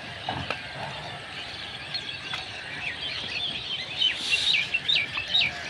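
Small birds chirping in quick, repeated short calls, busiest and loudest in the second half.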